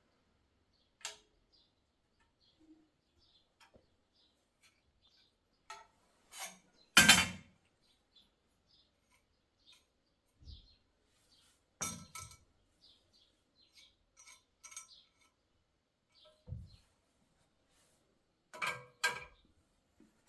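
Scattered sharp clinks and knocks of handled objects, with one loud knock about seven seconds in and another cluster near the end, and faint short high chirps between them.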